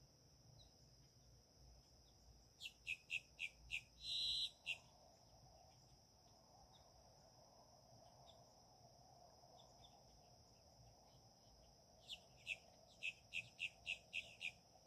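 A bird calling in two quick runs of sharp, short, downward-slurred notes, about three a second, with a louder buzzy note in the first run. Under it runs a steady high-pitched whine.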